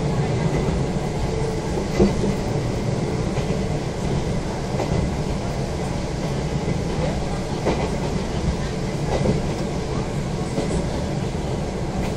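Izukyu 2100 series electric train running, heard from inside the passenger car: a steady low rumble with a few sharp clacks of the wheels over rail joints, the loudest about two seconds in.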